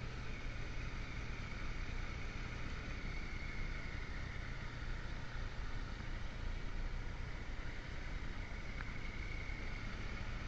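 Motorcycle engine running at a steady cruise, with wind and road noise.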